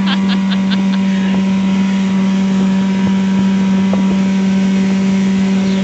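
Evinrude/Johnson 9.9 hp outboard motor running steadily at a constant speed, a steady hum with no change in pitch.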